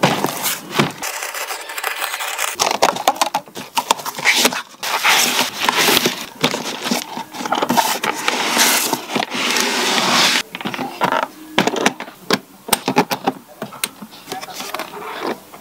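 Cardboard shipping box being opened and handled: flaps scraping, crackling and rustling, with short clicks and knocks as a hard aluminium carrying case is lifted out.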